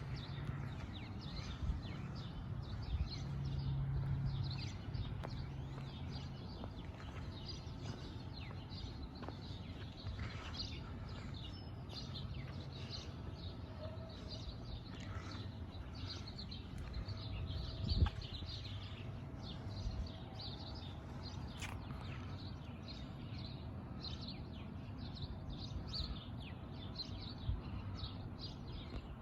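Many small birds chirping and calling in quick, scattered notes over a steady low background rumble, with one sharp knock partway through.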